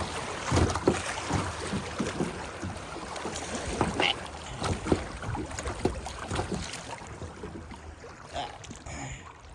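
Rushing whitewater and waves slapping and splashing against a kayak's hull as it runs a small rapid in high water. The splashing eases off after about seven seconds.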